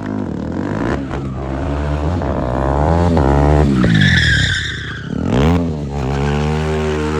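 Motorcycle engine revving up and down over and over, its pitch rising and falling in repeated sweeps. A brief high tyre squeal comes about four seconds in.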